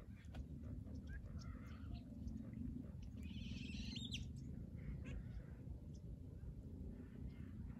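Scattered bird calls over a low steady rumble, with a brighter rapid trill about three seconds in that ends in a sharp click.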